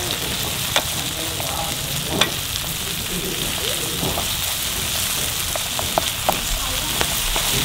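Stir-fry of sour bamboo shoots and coconut worms (palm grubs) sizzling steadily in a pan, with a few sharp clicks.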